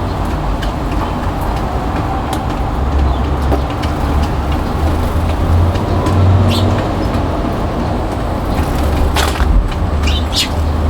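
Steady heavy rain falling on a balcony, a loud continuous patter with a low rumble, and a few short sharp high sounds near the end.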